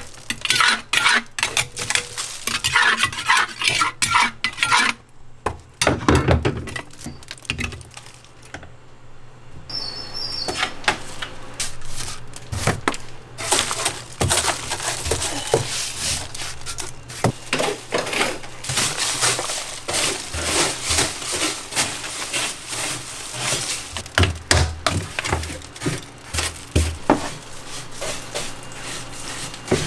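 Metal containers and scoops clattering and clinking, with many irregular knocks and rattles of hard, dry pieces being handled.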